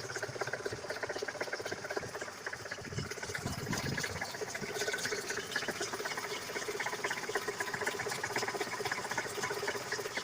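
ZMZ-402 inline-four engine of a GAZ-3102 idling at lowered revs with rapid, even ticking and clatter. The owner takes the dull knock for play in a worn bakelite timing gear and hears the first cylinder's valve tapping as well.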